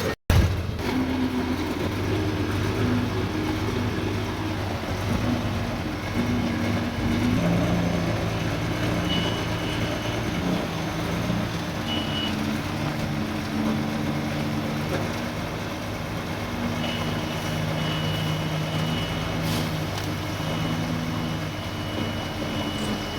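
Diesel engines of heavy earthmoving machinery running and working under varying load, the engine note shifting in pitch several times. A faint high steady whine comes and goes in the second half.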